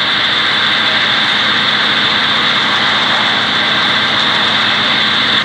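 A train running past, with a steady high-pitched squeal over the rumble that cuts off suddenly at the end.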